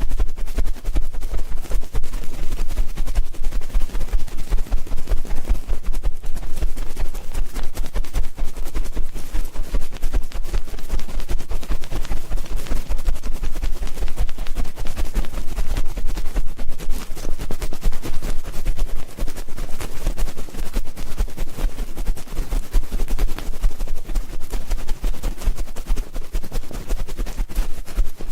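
Ear-cleaning ASMR: rapid, dense scratching and crackling right against the microphone, with a steady low rumble underneath.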